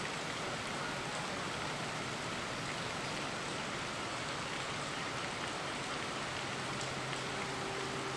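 Steady rain falling together with a river's flowing water: an even hiss with faint scattered drip ticks. A faint low hum comes in near the end.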